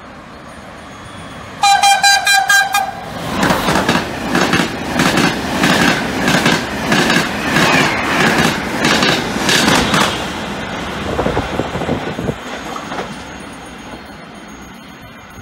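Frecciabianca passenger train sounds its horn once, a single held tone of about a second and a half. It then passes close by, its wheels clattering rhythmically over the rail joints, and the clatter and rumble fade as the train draws away.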